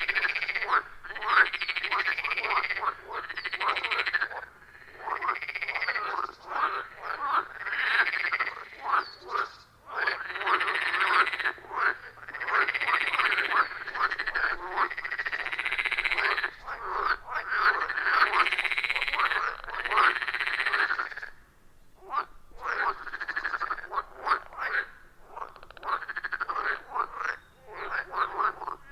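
Chorus of many frogs calling at a pond: dense, overlapping croaks in rapid pulses, with a brief lull about three quarters of the way through.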